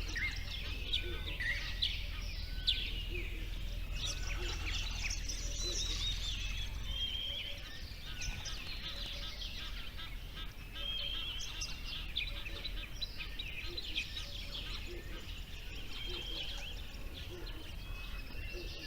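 Several birds chirping and calling at once in a dense, continuous chorus of short high notes. A low rumble sits underneath and fades out about seven seconds in.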